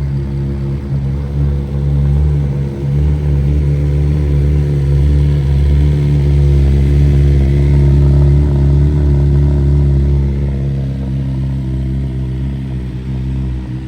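BMW S 1000 RR's 999 cc inline-four running through an Akrapovic exhaust at a steady engine speed, its even note swelling louder toward the middle and easing back near the end.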